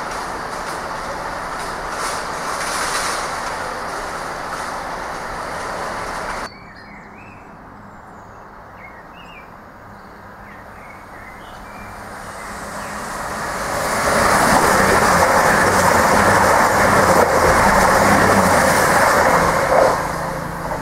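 Class 43 HST power car's diesel engine running as the train moves along the platform, cut off suddenly about six seconds in. Then soft birdsong, and a passenger train approaching and passing through the station, loud for about six seconds before it fades.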